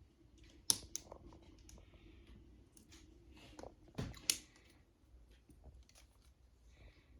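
Small plastic construction-kit parts being handled: scattered light clicks and taps, with sharp clicks about a second in and just after four seconds, and a dull thump around four seconds.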